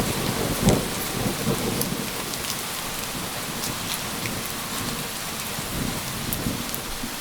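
Steady rain falling, with the low rumble of thunder in the first couple of seconds fading away.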